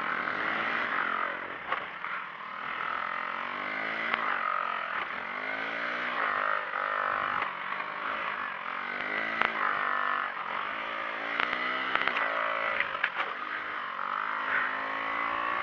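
Small motorcycle engine running while riding, its pitch rising and falling again and again as the throttle is opened and eased off. A steady rushing noise runs underneath, with a few sharp clicks.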